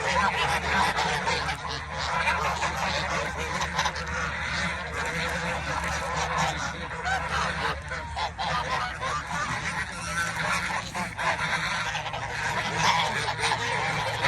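A flock of waterfowl calling continuously, many overlapping honks and calls with no break, over a steady low rumble.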